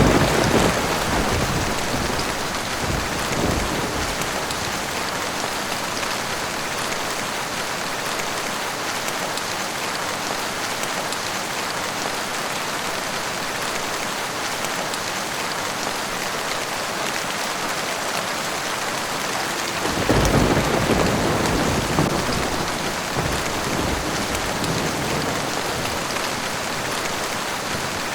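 Steady rain falling, with rumbles of thunder: one rolling through the first few seconds and another about two-thirds of the way in.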